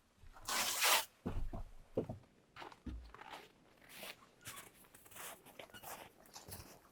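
Handling noises: a short loud rasp about half a second in, then scattered light knocks, thuds and rustles.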